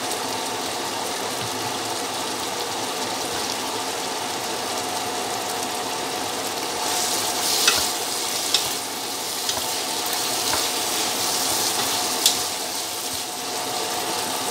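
Minced meat and freshly added chopped cauliflower sizzling as they fry in a pan. From about halfway through, a wooden spatula stirs and scrapes them through, with a few sharp scrapes and knocks against the pan.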